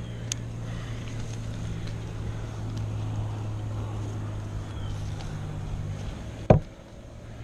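An engine idling steadily with a low hum, which drops away about six seconds in, followed by a single sharp knock.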